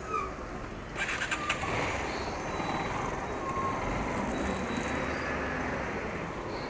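Steady road traffic and vehicle engine noise, with a brief rattle of clicks about a second in.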